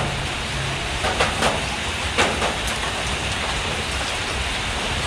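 Steady heavy rain of a storm, an even hiss with a few sharper drips or taps about a second and two seconds in.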